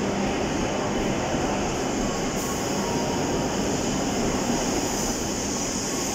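JR West W7 series shinkansen departing from the platform: a steady rush of wheels and running gear as the carriages roll past at low speed.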